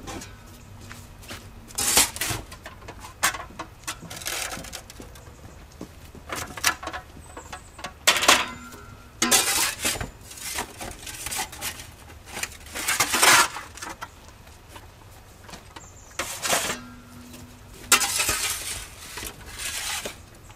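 Metal bakeware (baking tins and trays) being handled: about a dozen irregular clatters, scrapes and knocks, some with a brief ringing clank.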